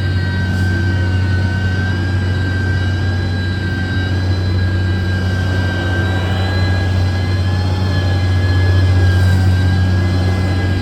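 Heavy construction machine's diesel engine running steadily under load, with a deep low drone and a steady high whine above it.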